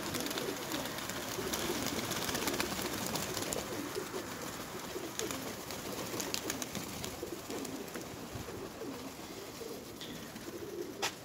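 Domestic pigeons cooing, several short low calls overlapping, over steady background noise.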